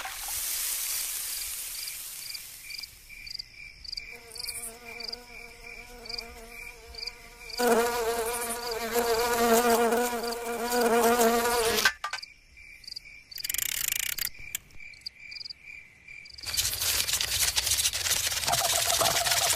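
Cartoon insect sound effects: an insect buzz with a wavering pitch that comes in about four seconds in, grows louder, and stops sharply after about eight seconds. Under it runs a steady pulsed chirp about twice a second, like crickets. A broad hiss takes over near the end.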